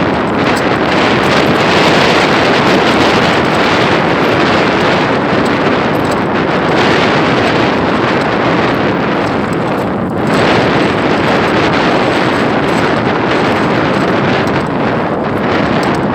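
Strong wind blowing hard over the microphone, a loud, steady rush that eases briefly about ten seconds in.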